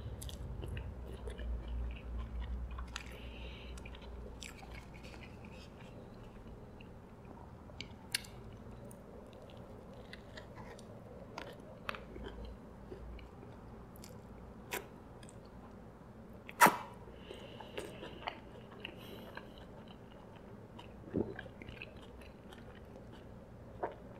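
A person chewing and biting a McDonald's Big Mac close to the microphone, with wet mouth clicks and smacks scattered throughout. One sharper click comes about two-thirds of the way through.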